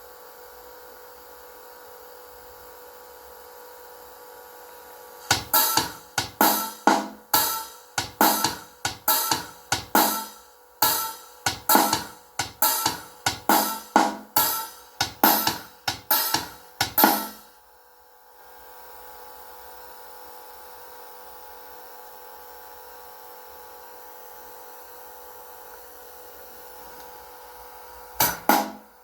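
Percussive music demo played through car-audio speakers: sharp, bright drum and cymbal hits about two a second, starting about five seconds in and stopping after about twelve seconds, over a faint steady hum. The hits start again near the end.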